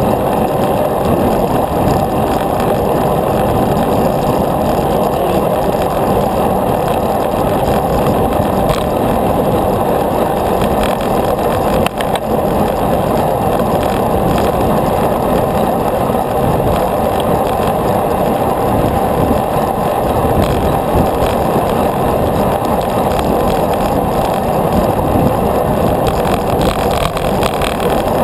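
Steady rushing noise from a moving bicycle ride: wind and road noise on the rider's camera microphone, with a single brief click about halfway through.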